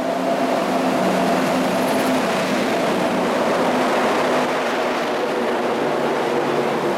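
A 6000 hp three-phase WAP-7 electric locomotive accelerating past at close range with a steady electric hum, followed by its LHB coaches rushing by. Heavy rain hisses throughout.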